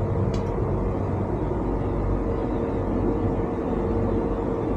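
Deutsche Bahn ICE train running at speed, heard from inside the vestibule: a steady low rumble with a constant hum over it. A faint short tick comes about a third of a second in.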